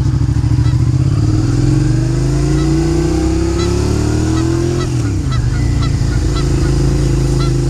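Suzuki motorcycle engine running under the rider, its pitch climbing steadily for a few seconds and then dropping about five seconds in as it slows. From about two and a half seconds in, repeated honking bird calls sound over the engine.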